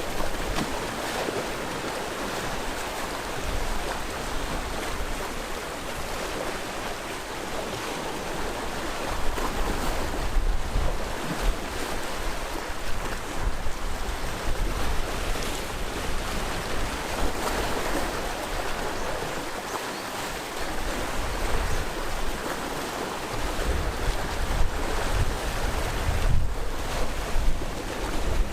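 Sea waves washing in and breaking on the shore in slow, repeated swells. Low wind buffeting on the microphone comes and goes, strongest near the end.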